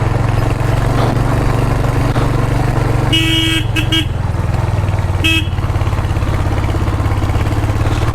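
Motorcycle engine running steadily while riding, with the horn honked: one longer honk about three seconds in, two quick toots right after, and another short honk a couple of seconds later.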